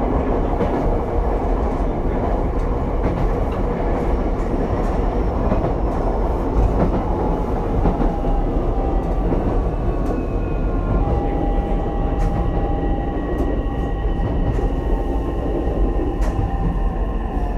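Ichibata 7000-series electric railcar running along the track: a steady rumble of wheels on rail with scattered clicks from rail joints. About halfway in, a whine from the traction motors rises above the rumble, and it falls in pitch near the end.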